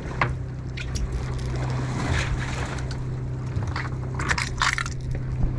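A boat's engine humming steadily, with scattered knocks and a few short splashy rushes of water on deck, twice.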